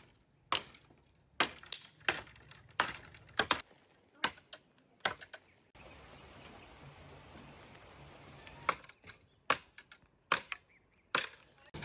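A series of sharp, irregular clicks and cracks, about one or two a second, with a quieter stretch of faint hiss in the middle.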